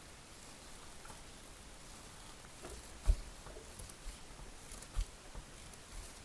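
Quiet workshop handling sounds: faint scattered ticks and rustles with two soft knocks, the louder about three seconds in and a second about five seconds in.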